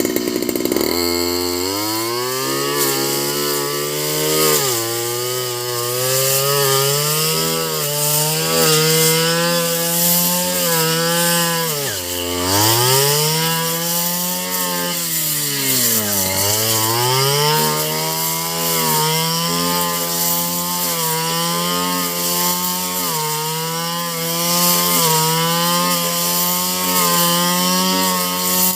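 Small engine running continuously at a fairly steady pitch, with its speed dipping sharply and recovering twice near the middle, as if briefly loaded.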